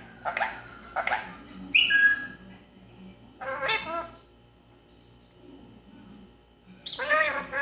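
Rose-ringed parakeet vocalizing: a few short nasal calls, a high whistle about two seconds in, and a longer call near the end.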